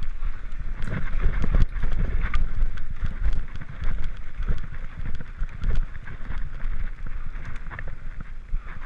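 Mountain bike descending a steep dirt trail at speed: tyres crunching over rough ground and the bike rattling with a run of small knocks and clicks, over a constant low rumble of wind on the microphone.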